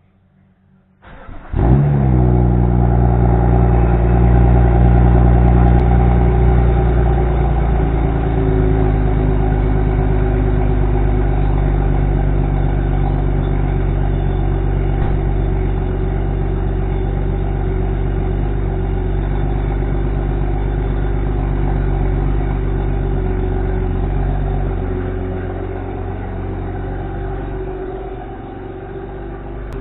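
BMW 335i's N55 3.0-litre turbocharged straight-six, with a catless downpipe, cranks briefly about a second in, catches with a quick flare, then runs at a steady fast idle. This is a cold start after sitting overnight. The idle eases off and gets quieter over the last few seconds.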